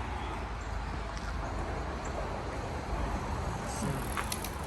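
Steady outdoor background noise with a low rumble, and a few faint short clicks near the end.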